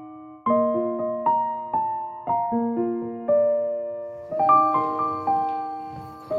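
Background music: gentle solo piano playing slow chords and melody notes, each struck note ringing and fading.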